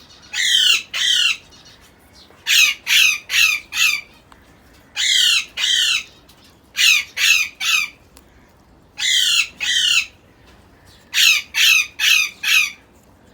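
Young African grey parrot squawking: harsh, rasping calls in clusters of two to four, repeated every couple of seconds.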